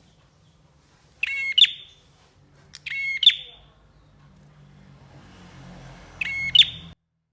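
A prinia (prenjak) singing: three short, loud bursts of rapid chattering notes, each ending on a sharp accented note, with pauses between them; the recording cuts off abruptly just before the end.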